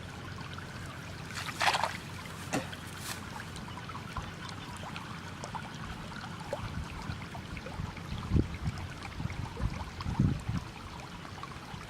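Water sounds: a short splash about a second and a half in over light trickling, with several low thumps later on.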